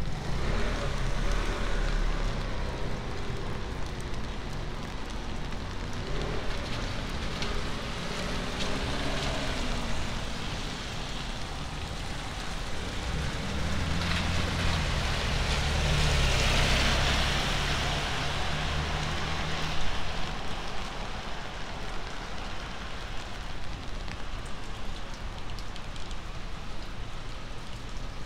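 Steady rain falling on a city street. Midway a vehicle passes on the wet road, its tyre hiss swelling and fading over several seconds.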